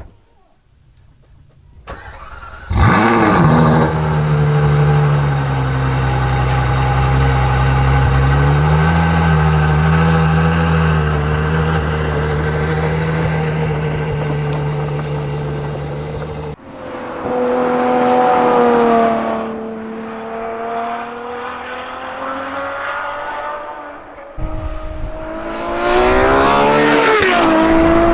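Synthetic engine sound from the Maxhaust external loudspeakers in the rear wheel arches of an electric Nissan Leaf Nismo. After a click, a rising start-up sweep comes about two to three seconds in, then a steady engine-like drone with a slight lift in pitch. After a sudden cut, the note sags and rises again, and climbs steeply in pitch near the end like an engine revving up through acceleration.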